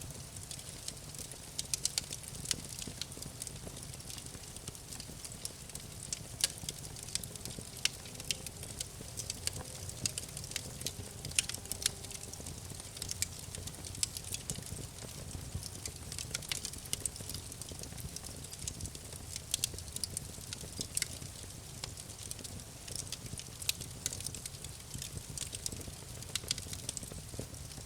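Campfire crackling: irregular sharp pops and snaps, some louder than others, over a low steady rumble of the burning fire.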